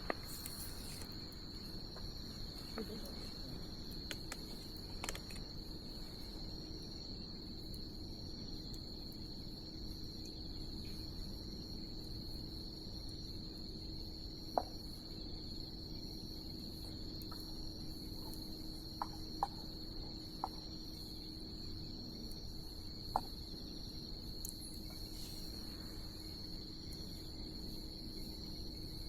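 Crickets chirring in one steady, unbroken high trill, over the soft rush of a wood bonfire that gives a few sharp pops and crackles.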